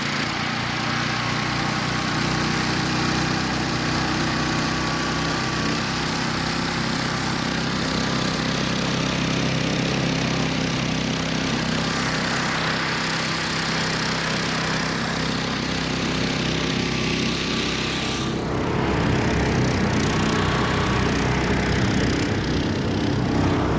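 Homemade karakat all-terrain vehicle's engine running steadily under load as it drives through deep snow, getting a little louder from about 18 seconds in.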